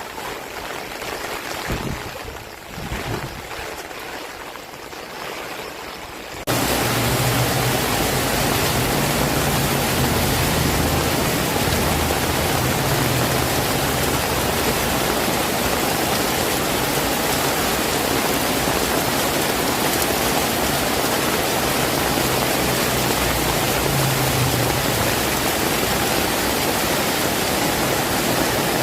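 Heavy rain falling as a steady hiss. About six seconds in it jumps abruptly to a much louder, denser downpour with a low rumble underneath.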